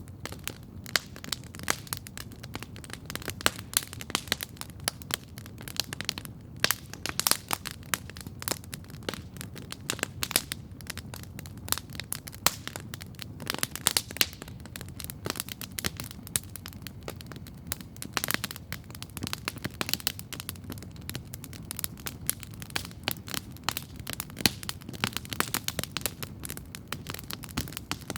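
Wood campfire crackling steadily, with frequent sharp, irregular pops over a low, steady rumble of the flames.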